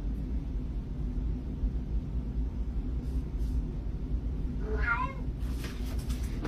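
A cat meows once, a short call about five seconds in, over a steady low rumble. A brief rustle follows the meow.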